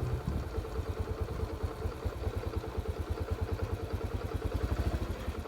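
Small motorcycle engine running at low speed with a steady, rapid putter.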